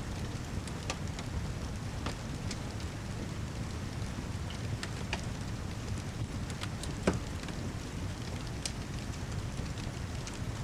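Steady rain with a low rumble under it, mixed with scattered sharp crackles and pops from a wood fire. The loudest pop comes about seven seconds in.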